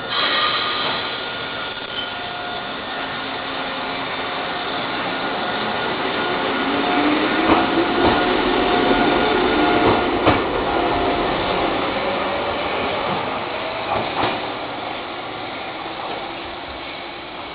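Eizan Electric Railway electric railcar No. 723 pulling away from a station. Its traction-motor whine rises steadily in pitch as it accelerates, with wheels clacking over rail joints a few times. The sound builds to its loudest about midway, then fades as the car moves off.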